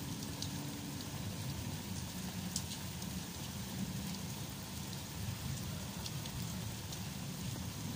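Steady rain falling on stone paving, an even hiss with a few sharper drip ticks and a low rumble underneath.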